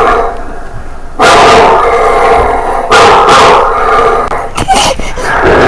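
A dog barking and yipping in two loud bouts, about a second in and again about three seconds in, with quieter vocalizing between.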